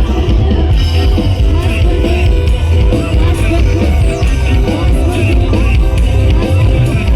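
Loud music with a very heavy bass, played over a large sound system.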